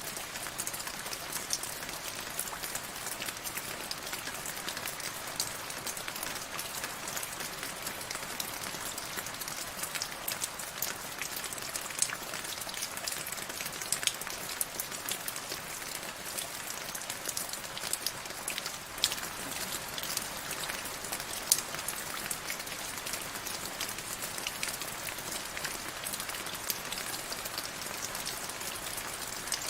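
Steady rain falling, a constant hiss with many close drop impacts and an occasional louder single drop.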